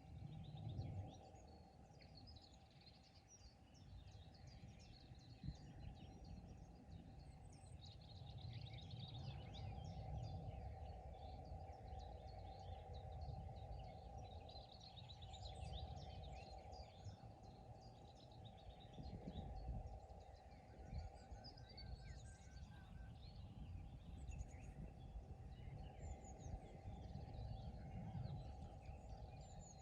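Faint chorus of many small birds singing and calling together at a pond, with quick chirps and trills overlapping throughout. A steady low rumble and a faint even hiss lie underneath.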